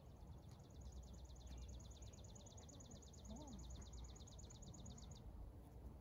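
A songbird's faint, long trill of rapid, evenly spaced high notes, about eight a second, stopping about five seconds in, over a low steady background rumble.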